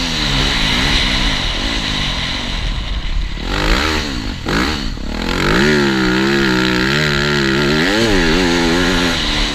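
TM Racing 250 FI motocross bike engine revving hard, its pitch rising and falling with the throttle and gear changes. About halfway through it drops off with a few quick throttle blips, then pulls strongly again.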